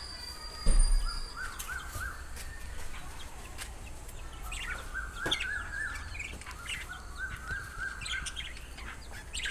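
Small birds chirping in repeated runs of short, quick chirps, with a single thump about a second in.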